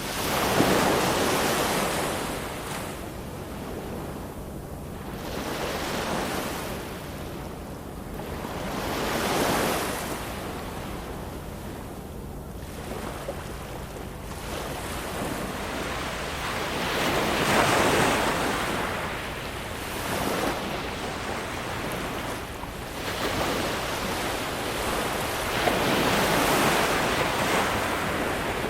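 Ocean waves breaking and washing up on the shore, one surge every several seconds, each swelling into a loud rush and then fading back to a steady hiss.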